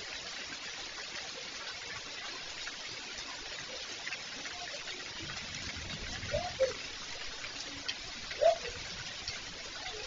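Steady rain falling, an even hiss of drops throughout. Twice in the second half, near the middle and again towards the end, a short rising-and-falling animal call cuts through it.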